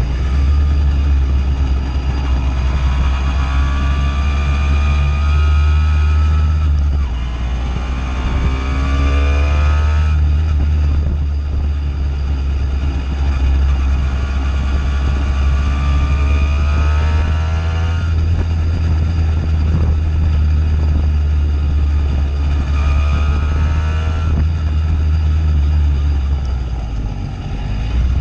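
Simson two-stroke moped engine running through a JW 85G+ aftermarket exhaust while riding, with a loud, deep drone. Its pitch climbs for a few seconds at a time and drops back three times as it accelerates.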